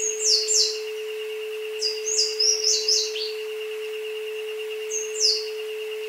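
Recorded jungle birdsong: clusters of quick, high chirps that sweep downward, about half a second in, again around two to three seconds in, and once near five seconds. Under it runs an isochronic tone track: one steady tone with a fainter, higher tone pulsing rapidly.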